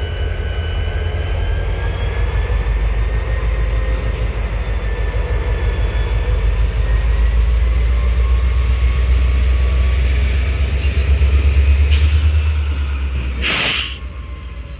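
A train in a railyard: a deep steady rumble with several high, thin whining tones that drift slowly in pitch. Near the end comes a short, loud burst of hiss, after which the deep rumble drops away.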